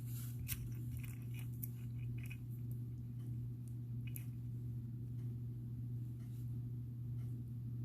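Faint scattered clicks and rustles of glass and gemstone beads and cord being handled while a needle is worked through them, over a steady low hum.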